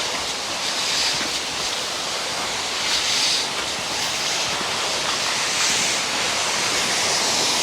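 Steady rushing outdoor noise with no pitch to it, getting a little louder near the end.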